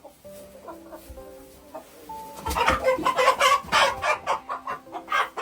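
Chickens squawking and clucking, breaking into a loud, rapid run of calls about two and a half seconds in, over quiet background music.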